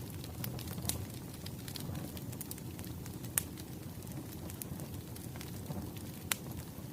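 Burning firewood crackling: a steady low rumble of flames with scattered sharp pops, a few louder than the rest.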